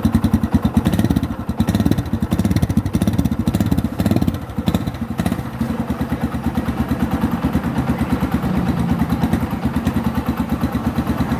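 Yamaha Scorpio's single-cylinder four-stroke engine idling through its stock, unmodified exhaust, with a fast, even beat of exhaust pulses. The level dips briefly a couple of times in the first half.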